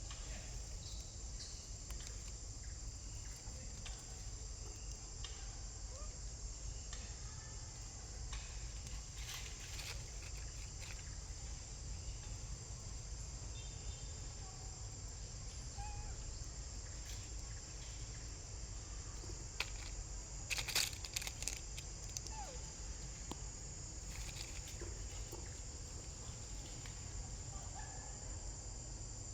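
Steady high-pitched insect chorus over a low rumble, with a short cluster of sharp clicks and rustles about twenty seconds in.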